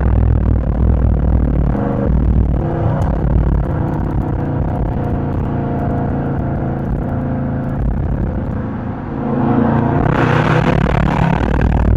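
Dodge Charger R/T's V8 engine and exhaust heard from inside the car while driving, a steady drone that gets louder near the end as it pulls harder.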